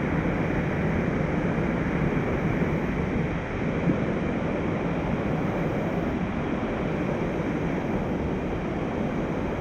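Mountain stream rushing over rocks: a steady, dense roar of flowing water.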